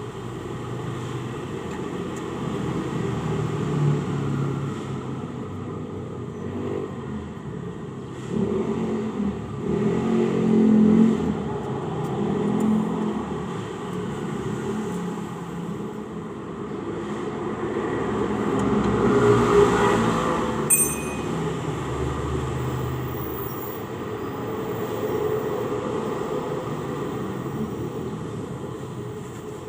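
Motor vehicle noise, a steady low rumble that swells and fades as vehicles pass, with one sharp click about two-thirds of the way through.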